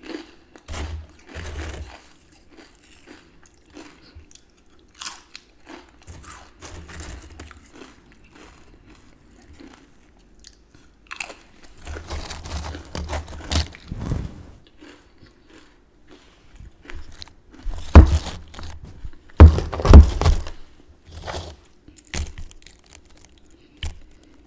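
Close-miked crunching and chewing of potato chips with dip: irregular crisp crunches in clusters, the loudest two near the end.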